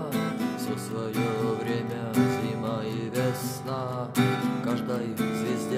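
Acoustic guitar strumming chords in a steady rhythm, with a melody line moving over them and heavier strums about two and four seconds in.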